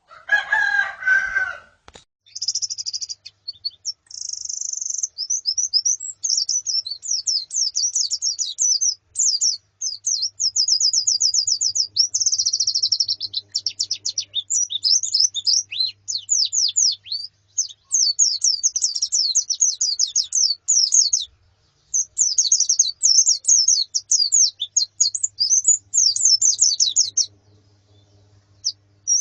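Female and colony white-eyes (pleci) chirping and twittering almost without pause in rapid, high-pitched sweeping notes. A lower call opens the first two seconds. The chirping stops for about two seconds near the end.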